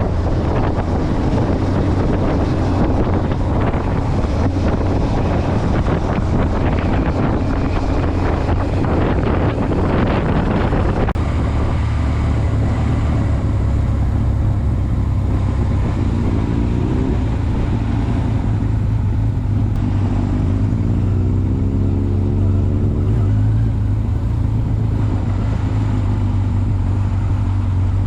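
Motorcycle engine running under way, with heavy wind buffeting on the microphone that eases about eleven seconds in. Twice in the second half the engine note climbs in pitch.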